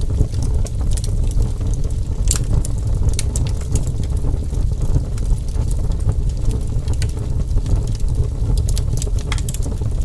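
Fire burning with a steady low rumble and irregular sharp crackles and pops throughout, one of the loudest about two and a half seconds in.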